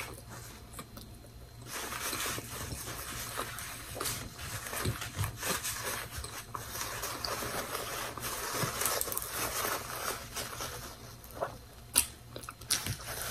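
Close mouth sounds of chewing a toasted bacon-and-egg sandwich, with a paper napkin crinkling as it is handled and wiped across the mouth. A few sharper clicks come near the end.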